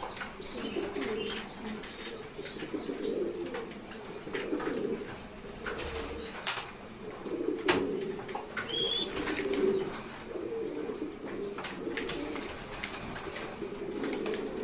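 A group of domestic pigeons cooing throughout, with short high chirps and scattered wing flaps and claps.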